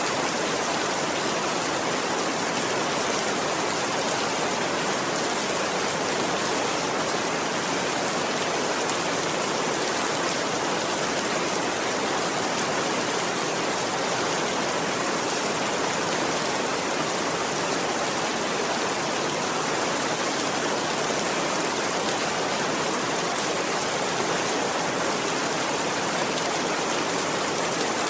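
Rain falling steadily in an even hiss, with no thunder.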